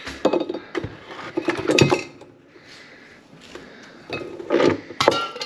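Irregular knocking and clinking of hard engine parts being handled as the intake manifold comes off an Audi 4.2 V8. There are clusters of clatter near the start and again near the end, with quieter shuffling in between.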